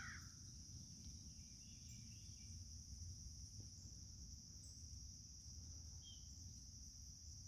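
Faint, steady high-pitched chirring of crickets over a low rumble, with a few faint short chirps.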